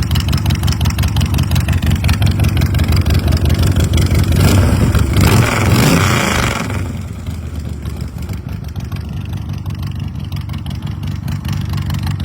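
Big Dog custom chopper's S&S 107 V-twin running with a fast, even beat of exhaust pulses. About halfway through it is revved up once, then drops back to a lower, steady run.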